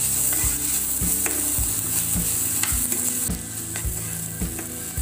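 Chopped onions and tomatoes sizzling as they fry in oil in a pan, stirred with regular scraping strokes about twice a second. The sizzle eases a little about three seconds in.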